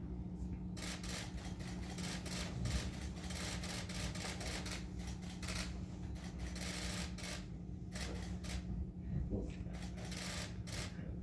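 Many camera shutters clicking in rapid bursts, several cameras at once, starting about a second in, over a steady low hum.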